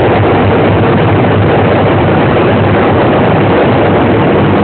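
Loud, steady aircraft engine noise, an even rush with a low hum underneath.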